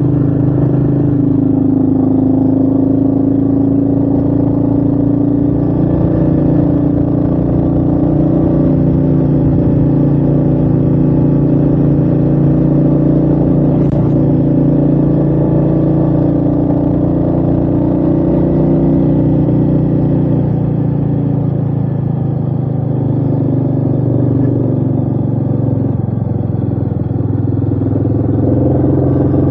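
Royal Enfield Meteor 350's single-cylinder engine running steadily on the move, its pitch rising and falling a little. A single brief click about halfway through.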